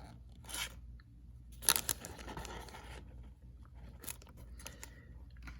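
Pokémon card pack packaging and cards being handled: a few short crinkles and scrapes, the loudest about a second and a half in.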